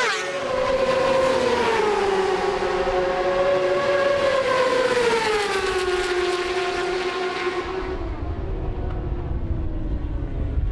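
Racing motorcycle engine on track: a high, steady note whose pitch drops twice, shortly after the start and again about five seconds in. Near the end the high part fades and a low rumble takes over.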